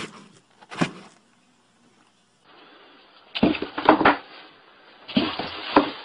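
Cardboard box knocked and scuffed by a playing cat: two sharp knocks early, then two bursts of scratching and scrabbling on the cardboard in the second half.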